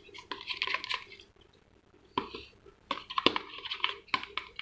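Glue and water being stirred in a container for slime, the mixture not yet evenly blended: a utensil clicking and scraping against the container in short spells, with a quiet pause of about a second in the middle.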